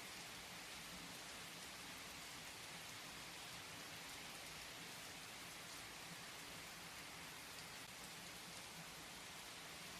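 Steady, faint rainfall: an even hiss of rain with a few separate drops ticking now and then.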